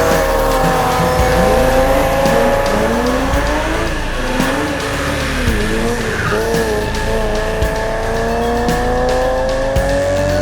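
Car engines revving, their pitch rising and falling repeatedly through corners, with tyre squeal as the cars slide on a wet track.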